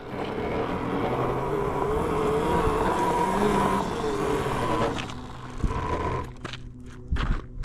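Electric mini bike being ridden: a motor whine that wavers in pitch over road and wind noise. The whine fades after about six seconds, and a few short knocks come near the end.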